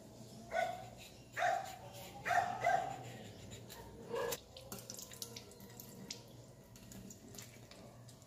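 Dogs barking, about five barks in the first half. Then tap water running into a stainless steel sink, with small clicks from a knife peeling a cucumber.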